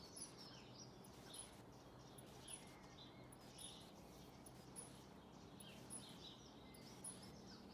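Near silence with faint bird chirps now and then.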